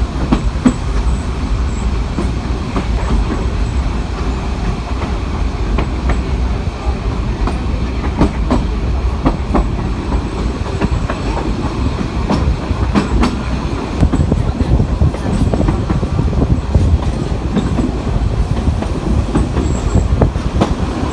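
Narrow-gauge train of the Budapest Children's Railway running along the track. A steady low rumble is broken by frequent clacks of the wheels over rail joints.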